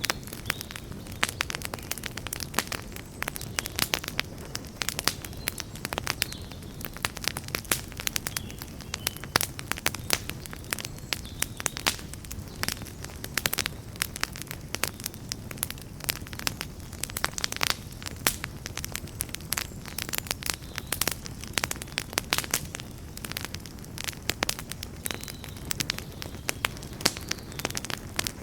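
Campfire burning, with a steady low roar and dense, irregular sharp crackles and pops from the burning wood.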